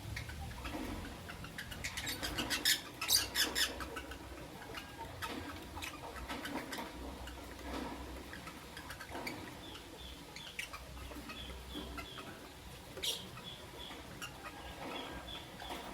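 Lovebirds chirping in short, high, repeated notes, with a burst of sharp clicks about two to four seconds in.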